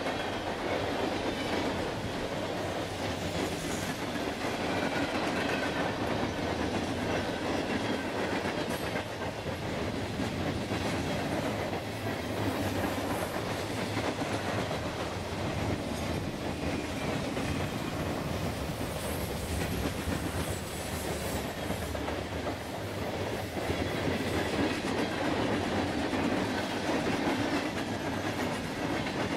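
Freight cars of a long mixed freight train rolling past: a steady rumble of steel wheels on the rails, with occasional clicks from the wheels.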